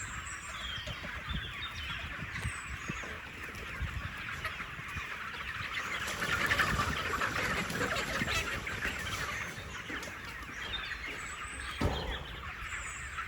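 A large flock of chickens clucking together in a dense, overlapping chorus, loudest in the middle. A single brief knock comes near the end.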